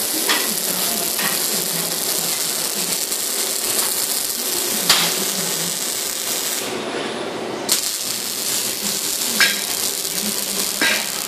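Arc welding by an OTC six-axis robot welder: a steady crackling hiss from the arc, with a few sharp clicks, breaking off for about a second in the middle before it starts again.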